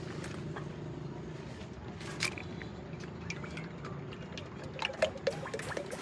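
A steady low engine hum, with scattered sharp clicks and knocks, the loudest about five seconds in.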